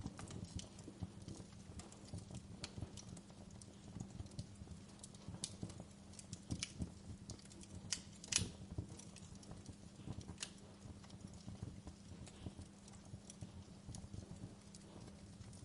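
Fireplace fire crackling: irregular pops and snaps over a low steady rumble, with one sharper crack about eight seconds in.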